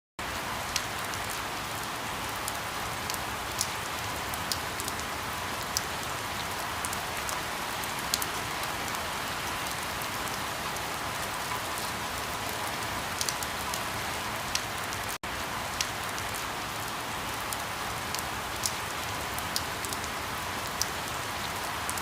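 Steady rain falling, with many sharp taps of single drops striking close by. The sound drops out for an instant about fifteen seconds in.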